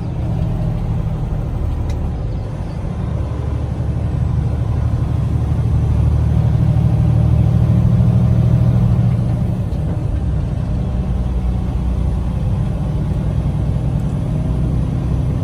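Diesel engine of a 2021 Freightliner Cascadia semi-truck pulling a loaded trailer, its low drone growing louder about six seconds in and easing off again after about ten seconds.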